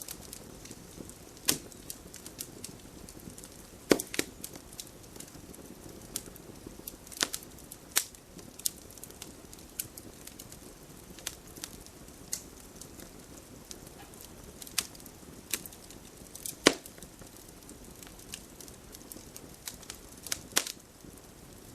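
Wood fire crackling: a soft steady hiss with irregular sharp snaps and pops, a few of them much louder than the rest.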